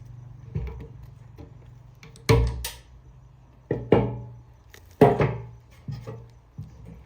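Irregular hard knocks on metal, about eight of them, each ringing briefly. The loudest come a little past two seconds and at five seconds, over a low steady hum.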